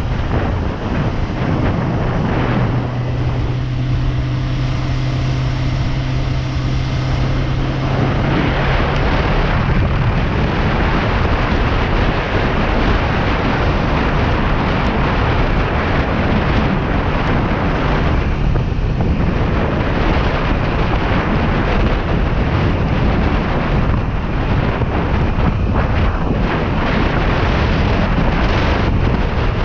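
Kawasaki Ninja 400 ride with wind rushing over the microphone. The parallel-twin engine is heard as a steady note from about two to nine seconds in, when the wind is lighter, and is then mostly buried under the wind rush.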